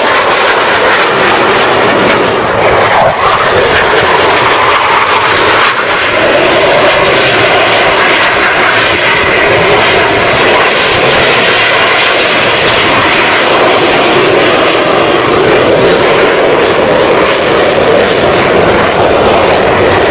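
Blue Angels F/A-18 jets flying, their engines a loud, continuous roar that holds steady with no break.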